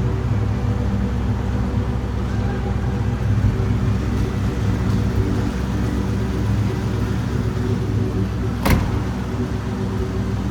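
2003 SVT Mustang Cobra's supercharged 4.6-litre V8 idling steadily, with one sharp click near the end.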